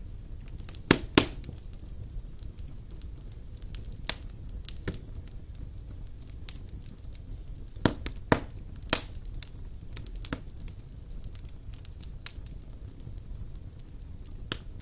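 Wood fire burning in a fireplace: a steady low rumble and hiss of the flames with irregular sharp pops and crackles from the burning logs, the loudest two about a second in and a cluster of three around eight to nine seconds.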